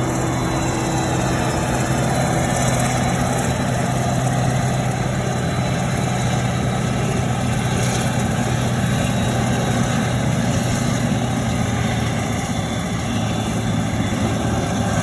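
Vehicle engine running steadily, a constant low hum with no change in speed.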